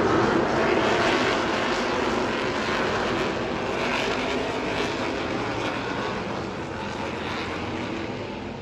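NASCAR Craftsman Truck Series race trucks' V8 engines at racing speed as the field comes through, a dense, loud engine noise that slowly fades as the trucks move away.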